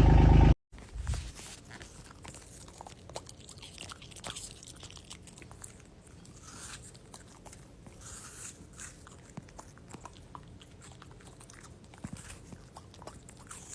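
A dog chewing, with scattered small crunches and clicks, after a louder sound from the previous clip cuts off suddenly about half a second in.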